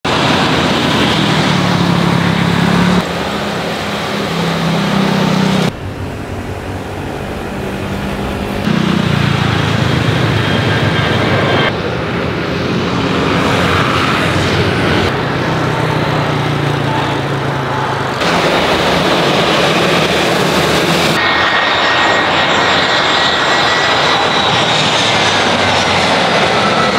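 Airbus A320 jet engines heard through a series of short take-off and landing clips, the sound jumping abruptly every few seconds. Near the end a faint engine whine slowly shifts in pitch.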